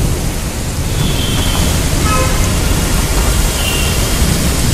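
Heavy rain pouring onto a flooded street: a loud, steady hiss of rain and running water.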